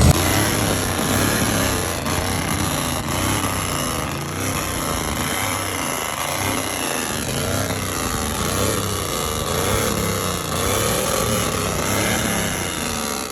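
Loud vehicle engine noise under a heavy hiss, holding steady and then cutting off suddenly near the end.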